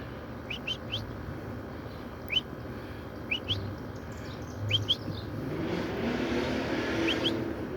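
Small birds giving short, sharply rising chirps, mostly in twos and threes every second or so. A broad rushing noise, like a passing vehicle, swells and fades in the second half.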